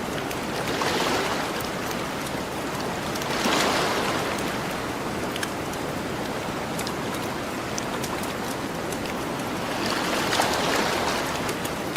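Gentle ocean waves washing onto the shore, swelling three times (about a second in, around three and a half seconds, and near the end) over a steady hiss of surf, with faint campfire crackles ticking throughout.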